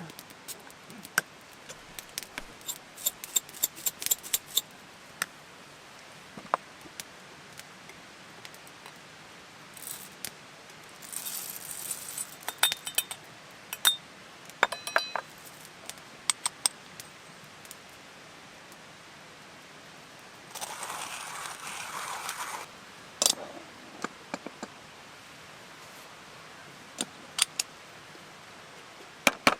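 Scattered clinks, taps and scrapes of small metal and glass items being handled, with two stretches of steady hissing noise of a second or two each.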